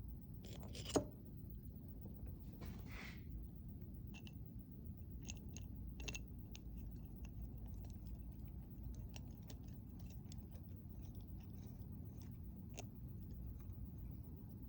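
Small clicks, ticks and a short light scrape of fuel pump parts being handled and fitted together, with one sharp click about a second in the loudest.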